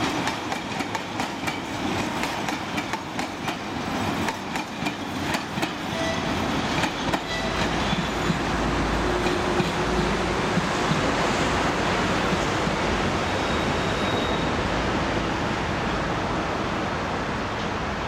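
Wheels of narrow-gauge passenger coaches clicking rapidly over rail joints as a train hauled by a TU7A diesel locomotive passes and draws away. The clicking thins out about seven seconds in and gives way to a steady rushing noise with a deep rumble.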